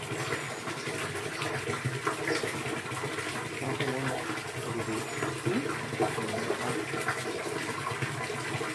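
Steady running, gurgling water.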